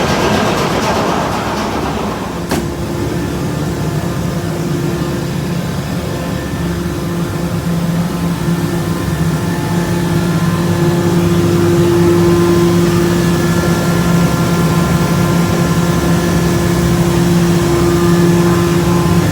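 Ship's fuel oil purifiers (centrifugal separators) running in the engine room: a steady machine hum with two held tones over a noisy wash. There is one sharp click about two and a half seconds in, and the hum grows somewhat louder after the middle.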